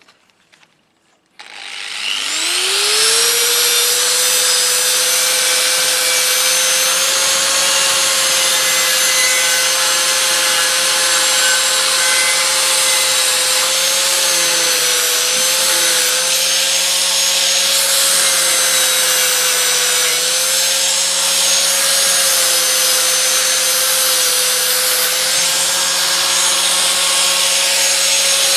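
Electric grinder fitted with a rotating brush switching on and spinning up to speed about a second and a half in, then running steadily against the aluminium cover with a loud rubbing, brushing noise; its pitch dips briefly a few times.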